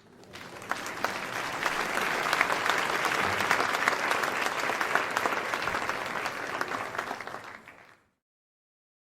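Crowd applause: many people clapping together, swelling in over the first second or two, holding steady, then fading out about eight seconds in.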